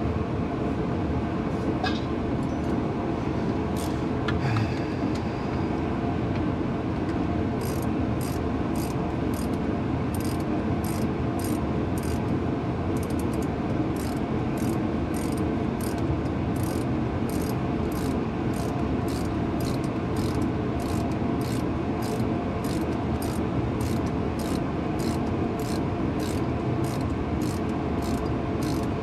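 Hand ratchet working a bolt loose, about two evenly spaced clicks a second starting several seconds in. A steady loud background rumble runs under it.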